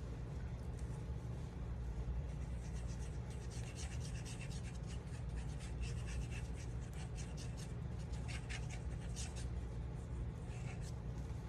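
Cardstock and paper being handled and rubbed: bursts of short scratchy strokes, heavier in the middle and again near the end, over a steady low hum.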